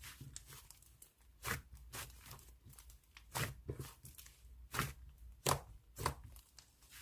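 Slime being pressed and pulled by hand, giving sharp sticky pops and clicks at irregular gaps of about half a second to a second.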